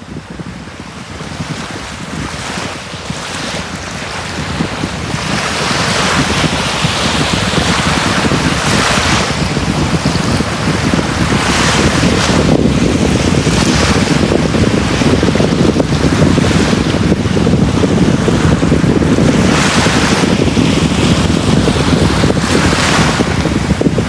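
Sea waves breaking and washing up on a beach, with a low wind rumble on the microphone. The sound swells up over the first several seconds, then the surf surges in every few seconds.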